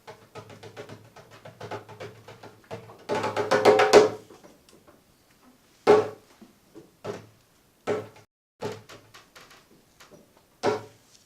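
Hand drum played between lines of spoken poetry: separate strokes at an irregular pace, with a dense, loud flurry about three to four seconds in and a new run of strokes near the end.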